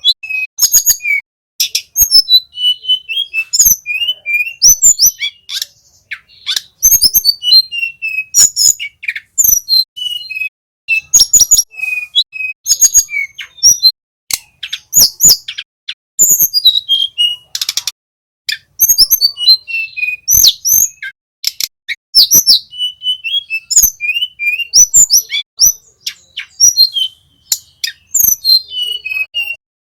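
Flycatcher song, of the tledekan kept as a cage bird, in a fast run of high whistled and chattering phrases that barely pause. Sharp clicks are scattered through it.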